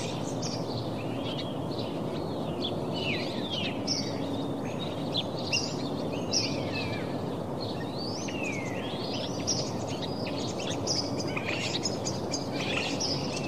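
Small birds chirping and twittering, many quick overlapping calls, over a steady background noise.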